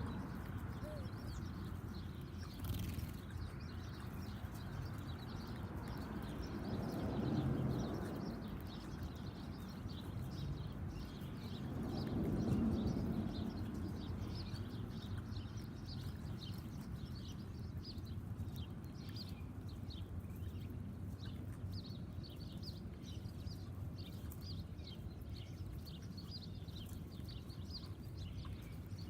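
Small songbirds chirping with many quick short calls, thickest in the second half. A low rumble swells and fades twice, about seven and twelve seconds in.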